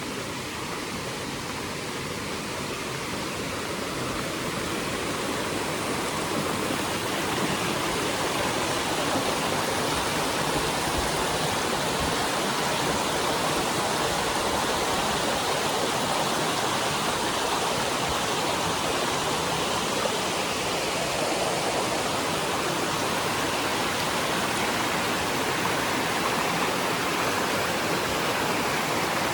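Rushing water of a fast mountain stream or falls, a steady, even rush that grows louder over the first several seconds and then holds steady.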